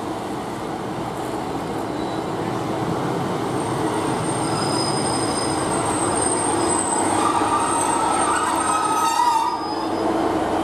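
Class 150 Sprinter diesel multiple unit running into the platform and braking to a stop, its diesel engines and wheels giving a steady rumble that grows louder. A high, steady brake squeal starts about a third of the way in and dies away near the end as the unit comes to a stand.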